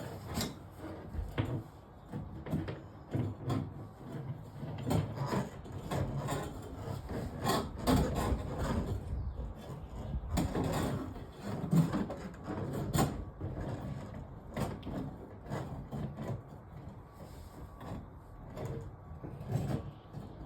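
Irregular knocks, scrapes and rubbing from handling kitchen sink drain pipes and fittings, with no motor running.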